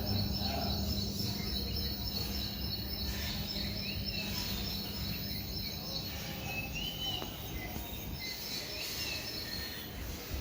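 Outdoor countryside ambience: insects trilling steadily in a high pitch, fading out after about three seconds and returning near the end, with a couple of short bird chirps and a constant low rumble underneath.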